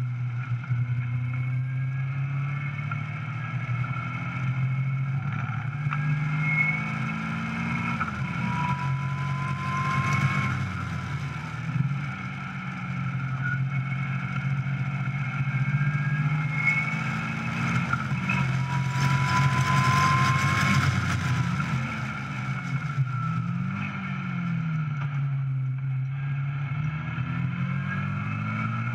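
Caterham 420R SV's 2.0-litre Ford Duratec four-cylinder engine pulling hard on track, its revs climbing and dropping several times with gear changes and lifts for corners. Wind rushes over the open cockpit throughout.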